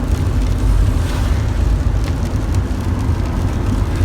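Steady rumble of a car being driven, engine and tyre noise heard from inside the cabin.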